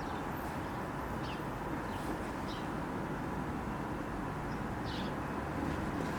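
Steady outdoor background rumble with a few faint, short bird chirps.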